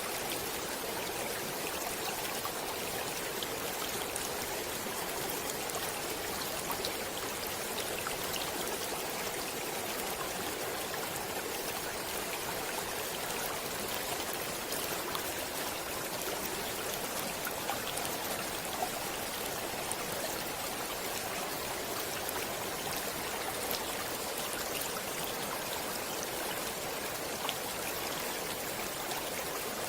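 Stream water running steadily over stones, a continuous rushing with small splashes and trickles.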